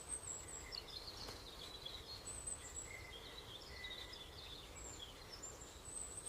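Faint birdsong: scattered short, high chirps and whistles from birds over a quiet background hiss.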